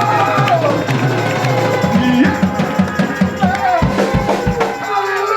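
Live gospel praise music played by a band, with held keyboard-like tones and a drum kit beat that comes to the fore about two seconds in.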